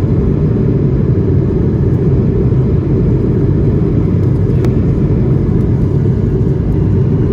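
Steady low cabin rumble inside an Airbus A220-300 powered up after takeoff: its Pratt & Whitney PW1500G geared turbofans and the airflow, heard from a seat in the rear cabin. There is a faint click about halfway through.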